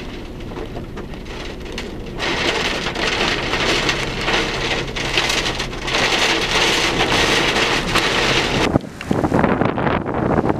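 Heavy rain and wind in the rain wrapping a large tornado, a steady dense rush that grows louder about two seconds in and dips briefly near the end.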